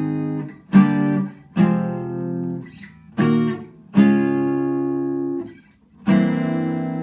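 Solo guitar playing the song's introduction: chords struck one at a time and left to ring, a new one every second or two, with no singing.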